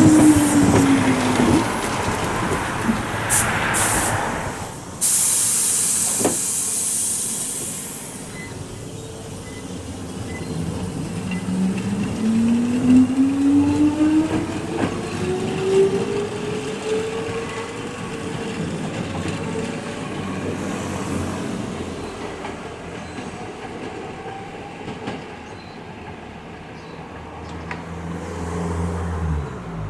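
Nose Electric Railway 5100-series electric train at a station platform. A loud burst of air hiss comes about five seconds in, then the traction motors whine, rising in pitch for several seconds as the train pulls away, and the sound fades.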